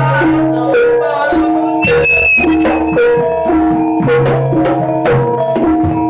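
Jaranan gamelan music: drums and tuned metal percussion play a brisk, repeating pattern of struck notes.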